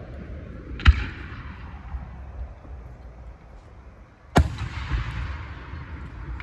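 Firework shells bursting overhead: two loud bangs about three and a half seconds apart, each trailing off in a long rumbling echo, with a few smaller pops after the second.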